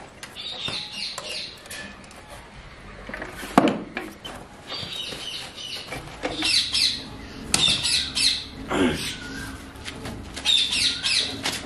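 Birds chirping in short repeated calls, with scattered clicks and one sharp knock about three and a half seconds in.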